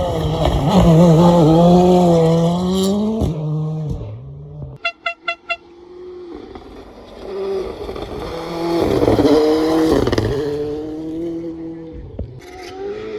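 Rally car engine revving hard, its pitch climbing, then dropping and fading after about three seconds. A quick run of five short beeps follows, then the engine note rises again and falls away near the end.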